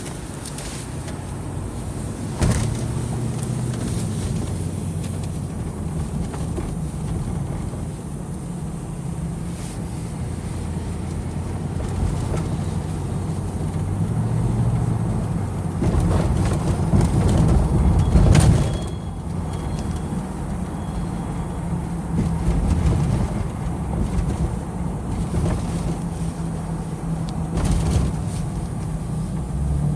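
Steady low rumble of a running vehicle. It swells about sixteen seconds in, and there are a few sharp knocks along the way.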